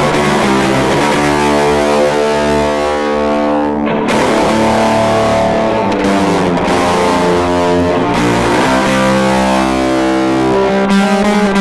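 Electric guitar through an EarthQuaker Devices Fuzz Master General fuzz pedal on its number 3 setting, heard from a Fender Deluxe Reverb amp. Heavily fuzzed, sustained chords change every couple of seconds, very loud.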